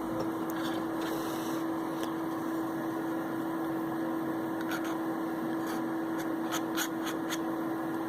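Steady hum of a workbench extractor fan, with a run of light clicks and scrapes from about five seconds in as a quick-setting adhesive is mixed.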